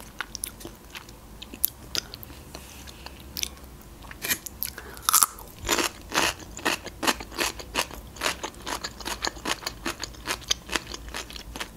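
Close-miked chewing, with sparse mouth clicks at first and then quick crisp crunches from about four seconds in, as of fresh cucumber being bitten and chewed.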